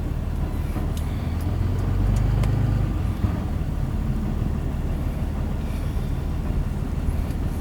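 Car driving, heard from inside the cabin: a steady low rumble of engine and road noise that swells a little about two seconds in, with a few faint clicks.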